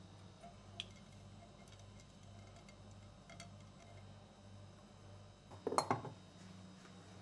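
A few faint light clicks, then a short cluster of louder knocks and clinks about five and a half seconds in, as objects are handled over a low steady hum.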